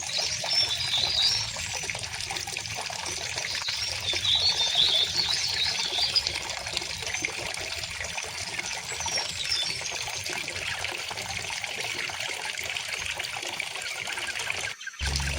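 A river flowing steadily, with birds chirping over it, most clearly about a second in and again around four to five seconds in. Near the end the sound cuts out for a split second, and a low rumble comes in after it.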